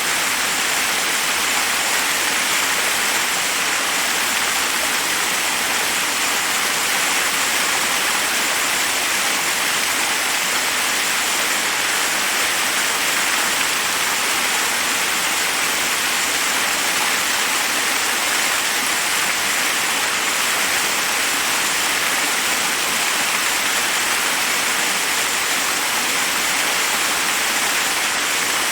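Forest waterfall: water cascading over rocks in a steady, even rush.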